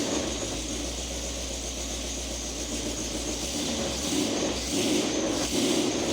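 Vehicle engine idling steadily through a newly fitted exhaust, with a low rumble that grows louder a few times in the second half.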